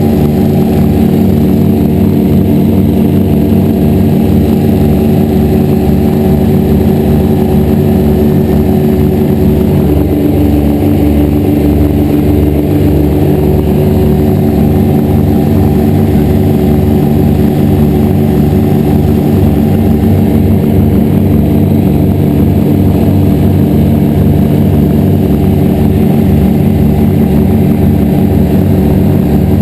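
Grumman G-44 Widgeon seaplane's twin piston engines running loud and steady, with a regular low throb.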